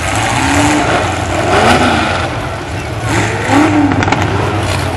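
Demolition derby trucks' engines running loudly, revving up and down in short bursts.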